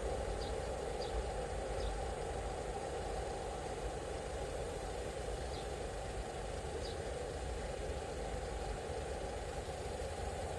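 Container freight train running along an elevated concrete viaduct: a steady rumble that eases slightly as the train moves off.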